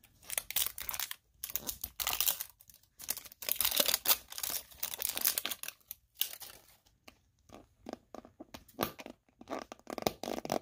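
Wrapping of a surprise toy egg being torn open and crinkled by hand, in bursts that are loudest over the first six seconds, then quieter rustles and clicks as the egg is opened.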